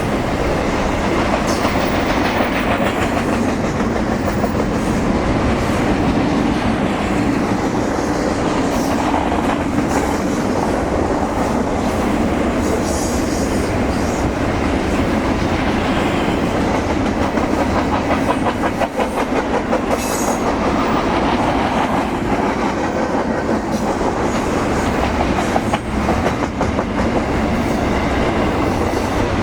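Train cars rolling steadily past close by, their wheels clattering over the rail joints in a continuous clickety-clack.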